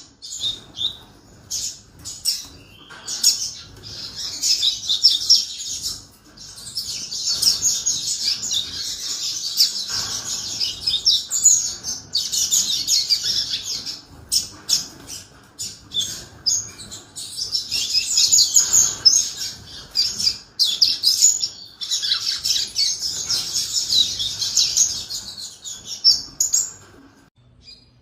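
Domestic canary singing: long phrases of fast, high trills and chirps lasting a few seconds each, with short pauses between them.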